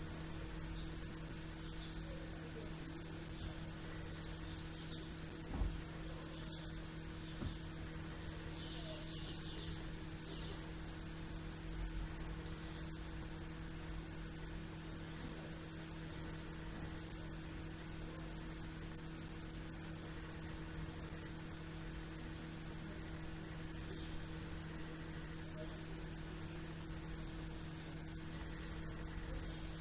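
A steady low electrical hum throughout, with faint chirps of small birds, a short cluster of them about a third of the way in, and a couple of brief low thumps.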